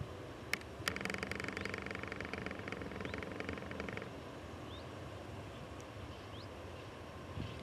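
Electric-hauled freight train passing at a distance: a steady low rumble, with a rapid, even clatter of about a dozen clicks a second from about a second in, stopping sharply about three seconds later.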